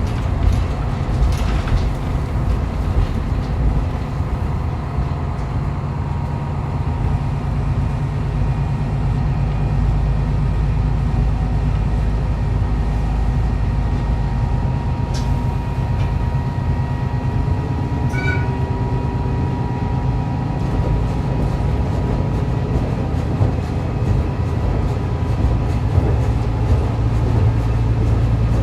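Diesel railcar running along the line, heard from inside the car: a steady engine drone over the rumble of wheels on rail, with a couple of brief sharp clicks partway through.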